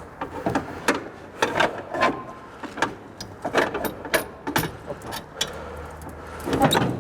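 AZLK Moskvich 412's four-cylinder engine being turned over by hand with a starting crank: a run of irregular metallic clanks and knocks as the crank turns it against compression, without the engine catching.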